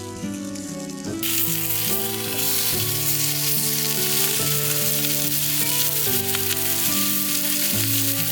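Food sizzling in a hot pan; the sizzle starts about a second in and runs under background music with held piano-like notes.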